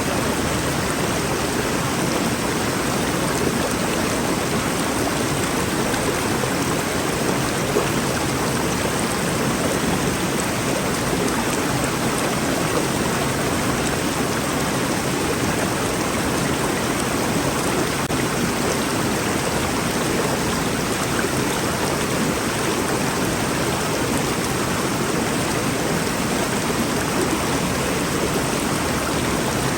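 A rainforest river flowing over rocks, a steady rushing of water.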